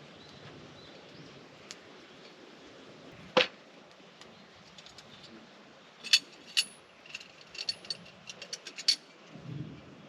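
Metal gear being handled: one sharp click about a third of the way in, then a quick, irregular run of ringing metallic clicks and clinks in the second half.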